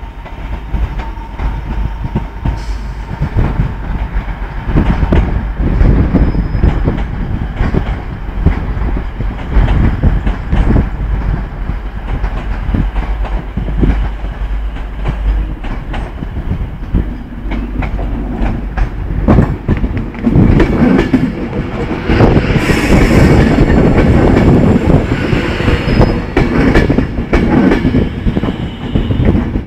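A train moving along the platform road, its wheels clattering over the rail joints with a low rumble throughout. It gets louder about two thirds of the way in, with some faint wheel squeal.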